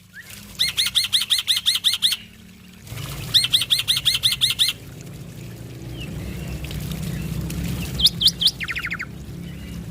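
Black-winged starling (jalak putih) singing: two fast trains of sharp repeated notes, about eight a second, then a few louder notes and a quick rattle near the end. A low steady hum runs underneath.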